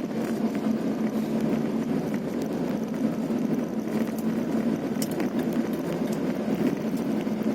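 A vehicle engine running steadily while driving along a rough road, with a steady low hum and road noise and a few light clicks.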